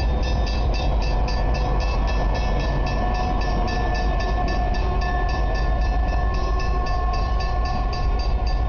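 A lashed-up consist of diesel-electric locomotives running light engine, with a heavy steady engine rumble and a steady whine above it. A fast, even ticking of about five a second runs through it.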